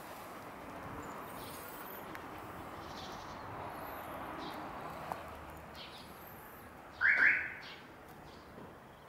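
Small birds chirping in the background, with one louder short chirp about seven seconds in.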